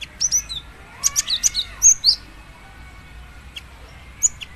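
Female cinereous tit (gelatik batu) calling to a male: bursts of short, sharp, high chirps, several in quick succession in the first two seconds, then a few single chirps near the end.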